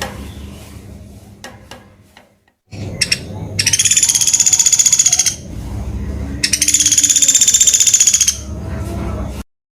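Pelatuk beras woodpecker giving two long, high, rapid trills, each lasting almost two seconds, with a few sharp clicks before the first trill.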